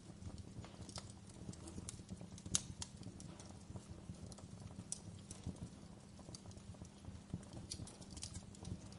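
Campfire wood burning, with irregular sharp crackles and pops over a low rumble. One pop stands out, about two and a half seconds in.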